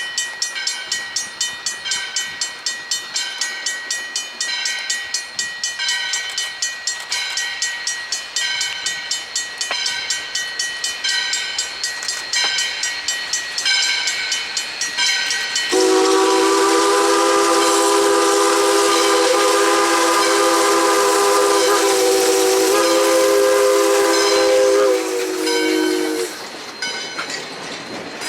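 A bell ringing in steady strokes about twice a second. About sixteen seconds in, a steam locomotive's chime whistle blows one long chord of several notes for about ten seconds. After it stops, the train rolls past.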